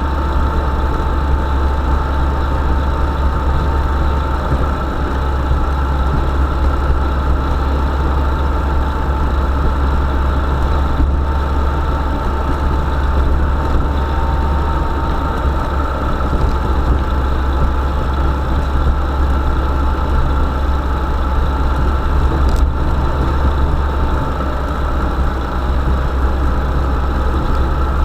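A motor vehicle's engine running steadily, a loud, even low drone with a faint steady whine above it and no revving.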